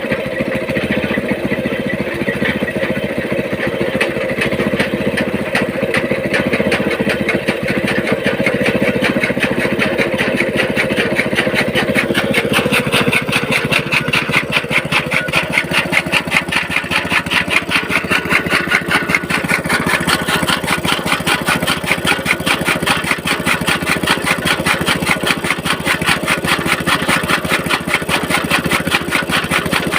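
Small petrol engine running a toka fodder-chopping machine, with a fast rhythmic clatter that grows stronger from about twelve seconds in.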